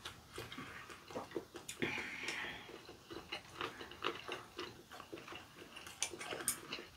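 Two people chewing food up close as they eat rabokki, with small clicks of wooden chopsticks and a short hiss about two seconds in.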